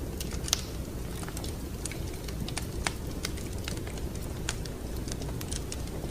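Wood fire crackling in a fireplace: irregular sharp pops and snaps over a steady low rumble, with two louder pops about half a second and three seconds in.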